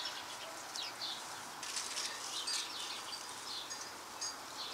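Small birds chirping: short, high chirps scattered throughout over faint outdoor background noise.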